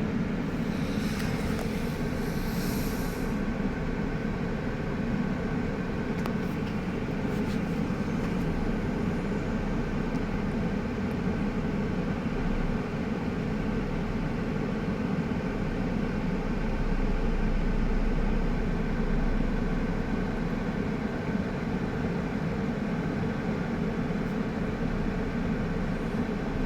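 Heavy truck's diesel engine running steadily with a low rumble, growing a little louder for a couple of seconds past the middle.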